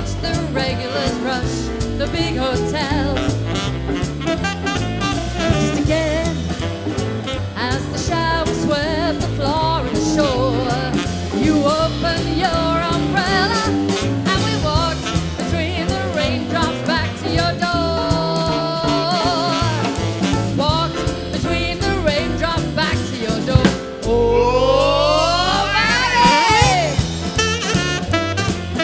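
Live jazz sextet playing an instrumental passage with a swing feel: piano, bass, drums, guitar and saxophone. Near the end a long rising slide sounds over a held low note.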